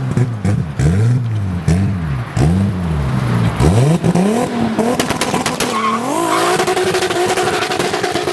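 Toyota Supra MK4's turbocharged 2JZ-GTE inline-six revved in four quick blips, each rising and falling, then brought up and held at high revs for the last couple of seconds with a rapid crackle over the top.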